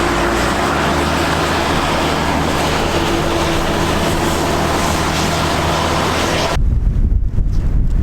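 Steady road and engine noise of a moving car, with a low hum running under it. About six and a half seconds in it cuts abruptly to gusty wind buffeting the microphone.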